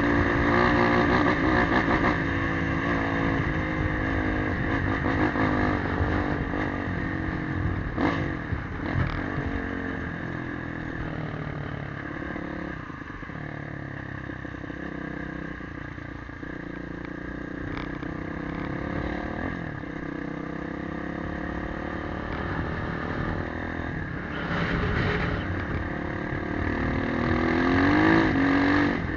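Motorcycle engine running under way, its pitch rising and falling with the throttle, with a rising pull near the end.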